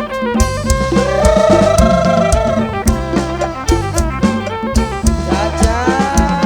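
Live kantrum band playing an instrumental passage: a steady drum beat and bass line under a melody of long held notes that waver in pitch.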